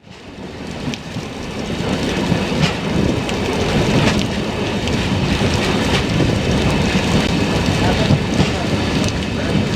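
An approaching train hauled by a 4500 hp EMD WDP4D diesel locomotive: a steady, deep rumbling noise with scattered clicks. It grows louder over the first two seconds, then holds.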